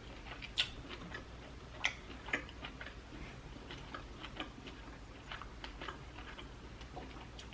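Close-miked eating sounds: a person chewing lobster tail meat, with soft, irregular wet mouth clicks and smacks, the sharpest three in the first two and a half seconds.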